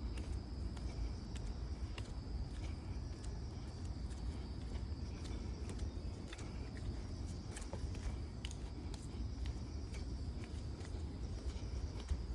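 Bare feet stepping along a mountain trail in light, irregular footfalls, over a steady high-pitched insect chirring and a constant low rumble.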